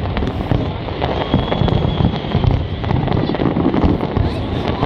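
A fireworks display: many shells bursting and crackling in quick, overlapping succession.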